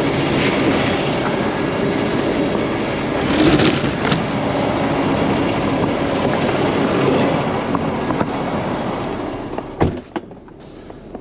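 Heavy truck running close by with steady engine noise and rattling, a few sharp knocks near the end, then the noise drops away.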